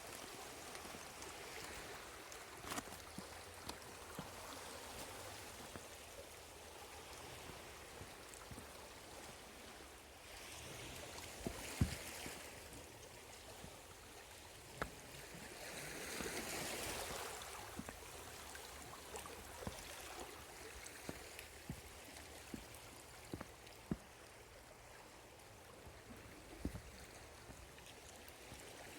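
Small sea waves washing and trickling at the shore, faint and steady, with two louder surges of wash and scattered light clicks.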